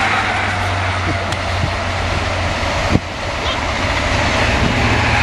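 Train passing at trackside: a steady rushing noise over a low hum, with a single click about three seconds in.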